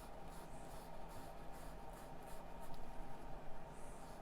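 Paintbrush stroking oil paint onto canvas: a string of short, faint, scratchy strokes.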